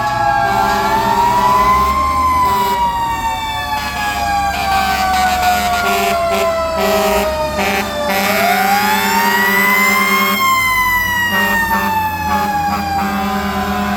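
Fire truck siren wailing in long, slow sweeps: the pitch climbs over about a second and a half, falls for about six seconds, then climbs and falls again. Steady lower tones from other vehicles cut in and out underneath.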